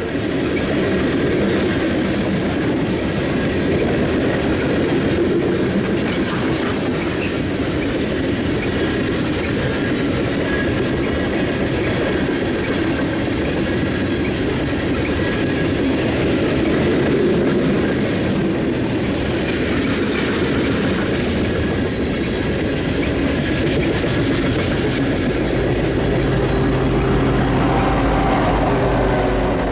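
Freight train cars rolling past, wheels clicking over the rail joints in a steady rumble, with faint squeals now and then. A steady engine hum comes in near the end.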